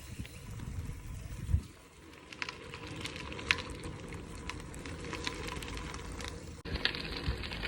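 Riding noise of a bicycle on a trail: an uneven low rumble with scattered light clicks, switching abruptly to a steadier hiss near the end.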